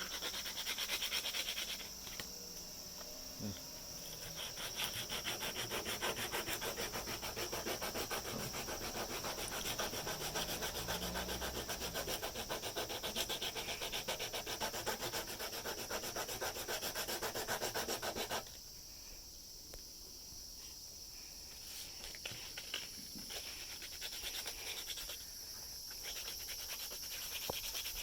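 Coarse sandpaper, about 80 grit, rubbed rapidly back and forth over a plastic 3D-pen repair on an eyeglass frame, smoothing down a lumpy weld. The dense scraping stops suddenly about two-thirds of the way in, giving way to lighter, intermittent rubbing, with a steady high-pitched tone underneath.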